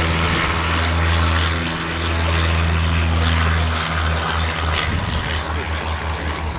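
Propeller aircraft engine running with a steady low drone. From about four seconds in, the drone starts to pulse rapidly, several times a second.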